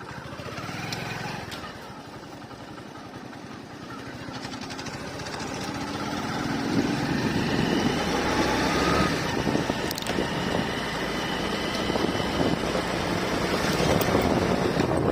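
Motorcycle on the move, its engine note climbing as it speeds up, growing louder, with road and wind noise throughout.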